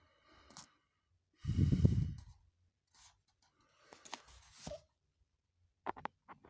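A heavy sigh or breath close to the microphone about a second and a half in, followed by a few faint clicks and rustles.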